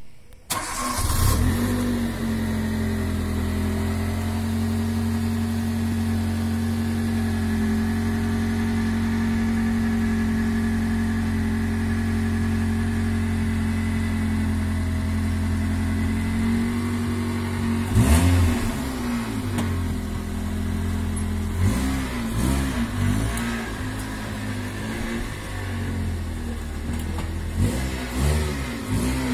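Nissan Micra (K12) hatchback's engine starting, then idling steadily. In the second half it is revved in several short blips, rising and falling in pitch, with a louder one at about eighteen seconds in and a cluster near the end.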